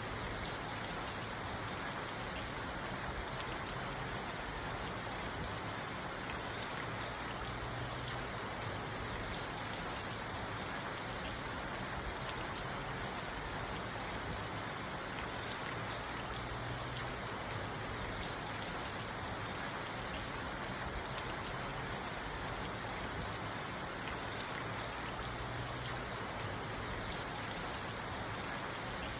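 Steady rain falling on a parked car, heard from inside the car as an even patter and hiss with no thunder.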